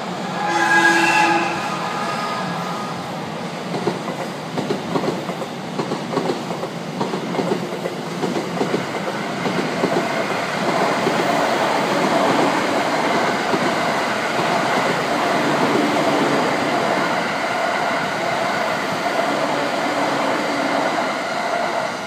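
Electric trains on a multi-track main line: a short horn blast about a second in, then wheels clacking over rail joints as a commuter train comes up, building into the steady run of the train passing close by with a humming tone, which fades right at the end.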